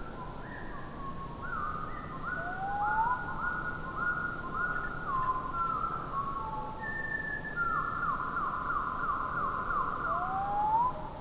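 Bird calls and song played back slowed four times, heard as low, drawn-out whistles: a series of repeated notes that each drop at the end, running faster near the end, with a short rising whistle twice.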